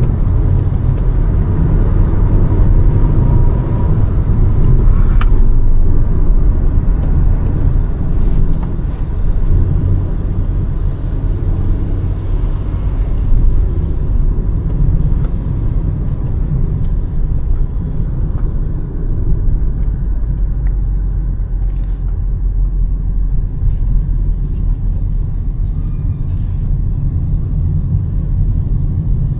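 Hyundai Verna's 1.5-litre turbo-petrol four-cylinder under way, a steady low rumble of engine and road noise. It is fuller and a little louder in the first half, then eases off about halfway through, with scattered light clicks.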